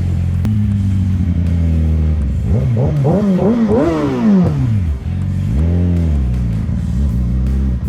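Motorcycle engine idling, then revved in a quick series of throttle blips about two and a half seconds in and revved once more about five and a half seconds in.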